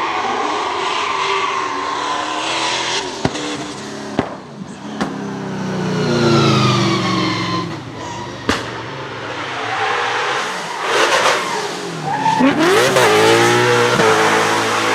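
Drift car engine revving up and down hard, with tyre squeal and a few sharp cracks over the engine note; near the end the revs climb steeply.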